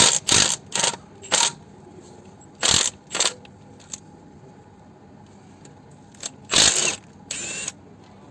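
Short mechanical bursts from a power gun working the oil sump bolts loose: several quick ones in the first second and a half, two more about three seconds in, and a longer one near the end.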